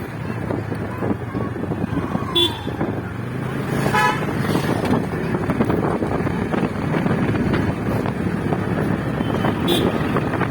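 Steady road and wind noise from a motorcycle ride, with a short vehicle horn toot about four seconds in.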